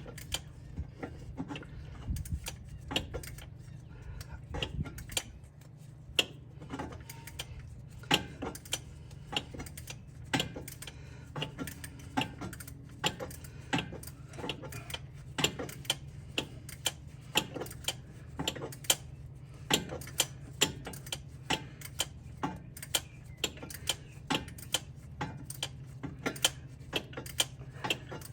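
Hand tools working on the engine: sharp metallic clicks and clinks, about one or two a second at uneven spacing, over a steady low hum.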